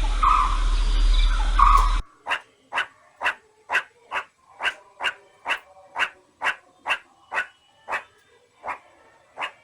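Dog barking over and over in a steady rhythm of about two short barks a second. It starts about two seconds in, after a sudden cut from a few chirping bird calls over hum and noise.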